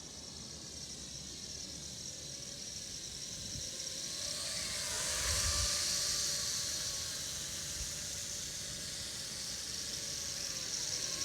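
eWonderWorld Wonder Chopper mini quadcopter in flight, its small propellers whining high. The whine grows louder as it comes closer, is loudest about five seconds in, eases off, then rises again near the end.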